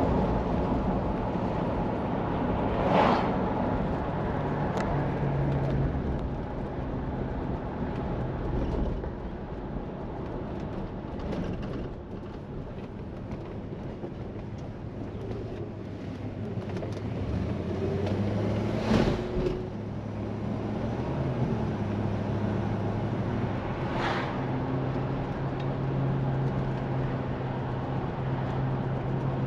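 1968 Plymouth Fury's 383 V8 running on the road, heard from inside the car over steady road noise, its pitch shifting with speed. There are three sharp knocks as the car hits bumps: one about three seconds in, two more near the two-thirds mark.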